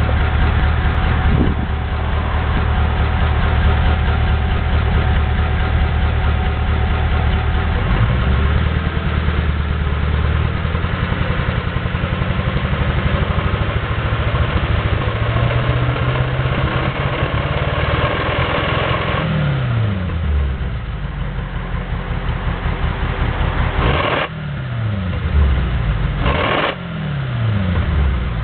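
Mercedes-Benz 300 SEL 6.3's 6.3-litre V8 being revved while standing. It holds steady for several seconds, then the revs climb slowly and fall away. Near the end come two quick throttle blips, each dropping back toward idle.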